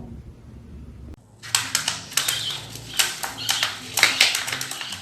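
A pet bird's quick run of sharp clicks and short high chirps, starting suddenly about a second in.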